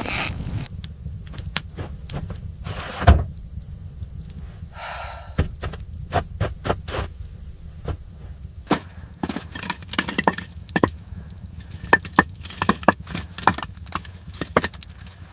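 Irregular sharp knocks and cracks, with one heavy thud about three seconds in and a quicker run of clicks in the second half, over a steady low rumble.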